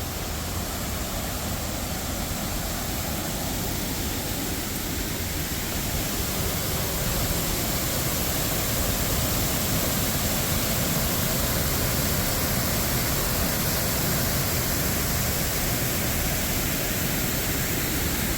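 Steady rushing of a waterfall in heavy flow, growing somewhat louder about a third of the way through.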